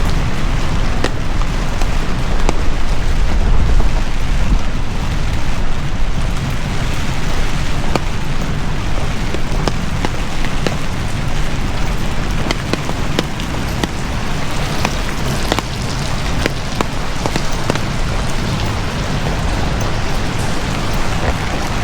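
Heavy typhoon rain falling steadily, with many sharp ticks of individual drops striking close by and a low rumble underneath that swells a few seconds in.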